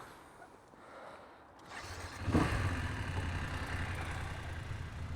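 An engine starting about two seconds in, then running at a steady idle.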